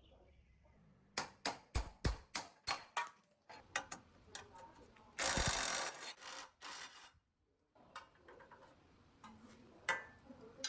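Workshop tool work on the mixer's parts: a quick run of sharp knocks and clicks, a loud scraping hiss lasting about a second around the middle, then more scattered knocks.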